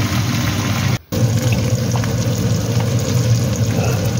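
Minced pork sizzling steadily in a wok with soy and oyster sauce, broken by a brief gap about a second in.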